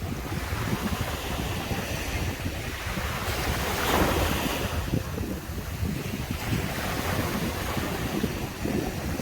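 Sea surf washing onto a beach, with one wave breaking and surging into a louder hiss about four seconds in. Low wind rumble buffets the microphone underneath.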